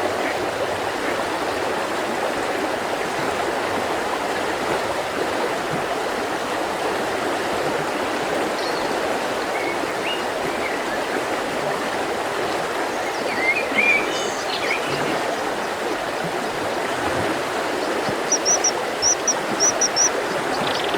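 Mountain river rushing steadily, with birds calling over it: a few short chirps in the middle and a quick run of high, thin notes near the end.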